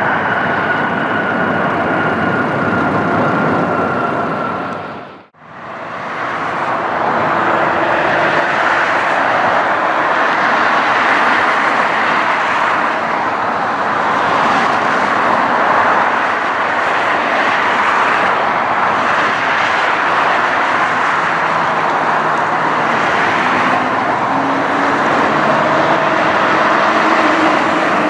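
Jet airliner engines: a roar with a falling whine that cuts off about five seconds in, then a steady, even jet roar from another aircraft.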